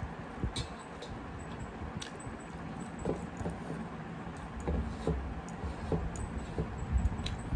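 A person chewing a mouthful of rice and curry with wet mouth sounds, with scattered sharp clicks and light squishing from fingers working food on a metal plate.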